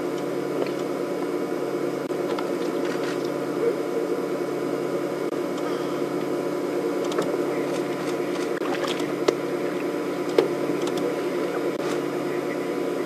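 A steady mechanical hum with a few faint clicks, two of them sharper about nine and ten seconds in.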